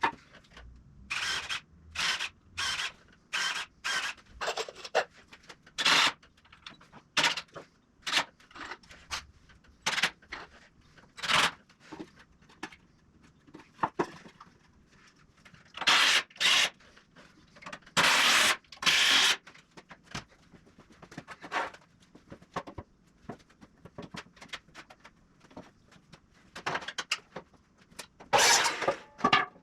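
A handheld power tool run in about twenty short bursts, a fraction of a second to a second and a half each, with pauses between.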